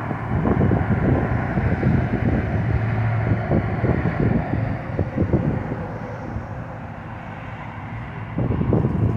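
A vehicle engine rumbling, with wind buffeting the microphone. The sound eases a little in the second half and picks up again near the end.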